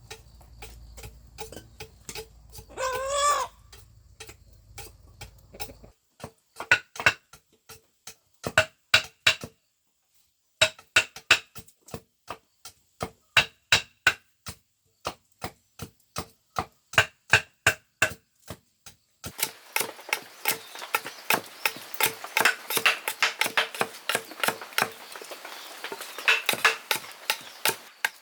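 A rooster crows briefly about three seconds in. Then come sharp, repeated strikes of a tool on bamboo, about two a second, growing denser and more rapid in the last third.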